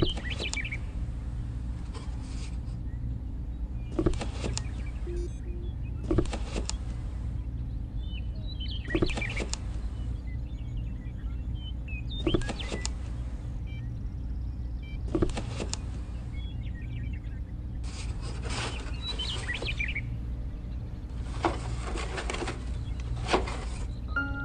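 Miniature clay brick wall panels being set down and slid into place on a sandy base: a light knock followed by a brief scrape, repeated about every two to three seconds, over a steady low hum.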